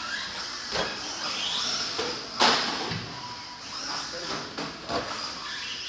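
RC stadium trucks racing on a dirt track: their motors whine, rising and falling, with sharp knocks of landings or collisions, the loudest about two and a half seconds in.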